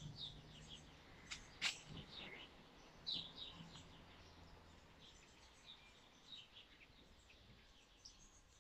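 Faint chirping of small birds in the background, short scattered chirps throughout. Two sharp clicks come about one and a half seconds in.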